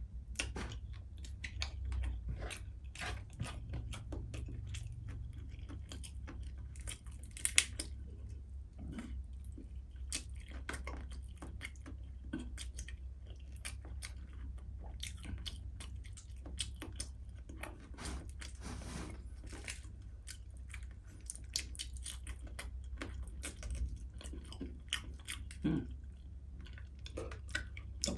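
Close-miked eating sounds of a man chewing crispy fried fish with his mouth: irregular wet smacks, small crunches and clicks, with one sharper, louder crunch about seven and a half seconds in. A steady low hum runs underneath.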